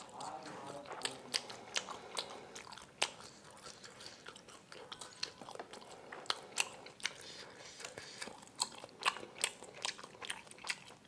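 Close-miked chewing of bakso meatballs: wet mouth sounds with many irregular sharp smacks and clicks.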